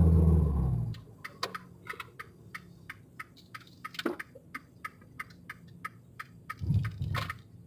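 Fiat 500 Abarth's 1.4 turbo engine drone falls away about a second in, then a run of sharp clicks, about three a second, with a low thump near the end.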